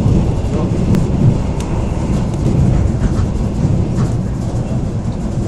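Steady low rumble of a moving passenger train heard from inside the carriage, with a couple of faint clicks.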